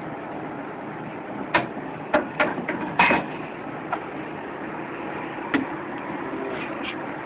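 Steady rumble of a ship's engine and machinery, broken by a cluster of sharp knocks and clatters between about one and a half and four seconds in, and one more knock a little later.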